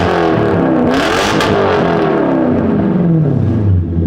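Lexus SC400's 1UZ-FE V8 revved hard through a freshly built stainless steel straight-pipe exhaust, loud: the revs peak about a second in, then the pitch falls steadily back to a low, even note near the end.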